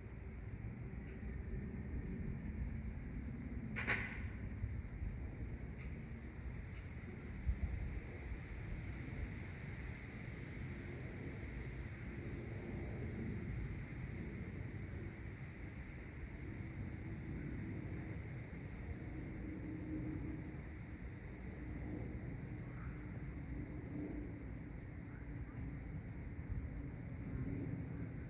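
Crickets chirping in an even rhythm, about three chirps every two seconds, over a steady low rumble, with one sharp click about four seconds in.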